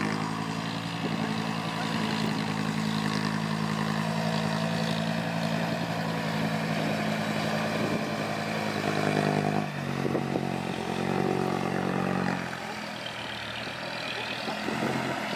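Heavy diesel engine of earth-moving machinery running steadily at working revs. It dips briefly about ten seconds in, then comes back, and runs lower for the last few seconds.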